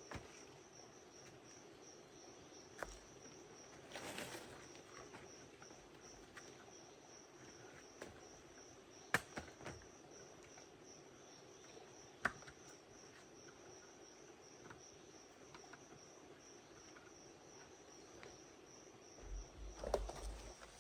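Faint forest insect chorus: a steady, evenly pulsing high-pitched trill. A few sharp knocks cut through it, the loudest about nine and twelve seconds in.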